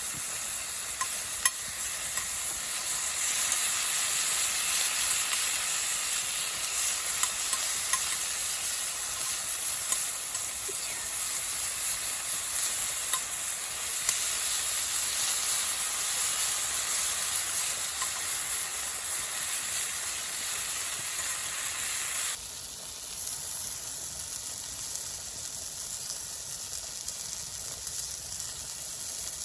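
Food frying, a steady sizzling hiss with occasional small pops; about three-quarters of the way through the hiss drops abruptly and carries on more quietly.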